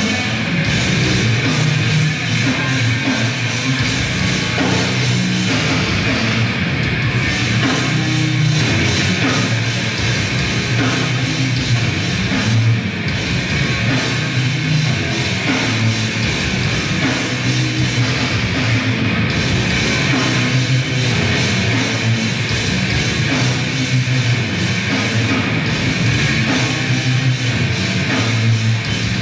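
Grindcore band playing live: distorted guitars over fast, dense drumming, loud and unbroken.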